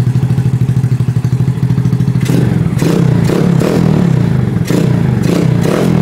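Chevrolet LT4 small-block V8 idling smoothly with a steady low pulsing note, freshly restarted from cold. From about two seconds in, roughly eight short sharp sounds come over it.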